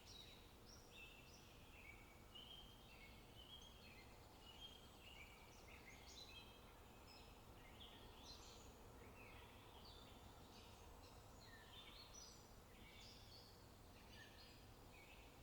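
Faint birdsong: several birds calling at once, a steady scatter of short, high whistled and chirping notes.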